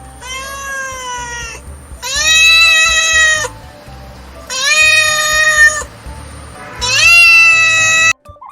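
A cat meowing four times in long, drawn-out calls, each rising at the start and falling away at the end, over background music.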